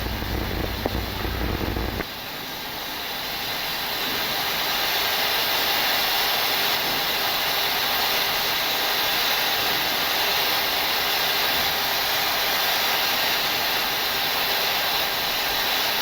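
Steady rushing air noise on a Boeing 737-800 flight deck in descent. About two seconds in, a low rumble cuts off abruptly, and the hiss then swells over a few seconds and holds steady.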